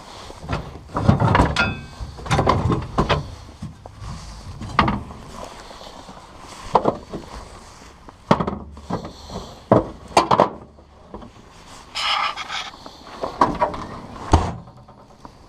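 SCC Z-Chain tire chains being handled and laid on a light-truck tire: irregular clinks, rattles and scrapes of the chain, with a brief squeak about a second and a half in.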